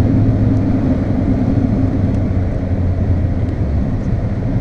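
Steady engine and tyre drone of a Volkswagen Golf at speed on a wet track, heard from inside the cabin, easing slightly near the end.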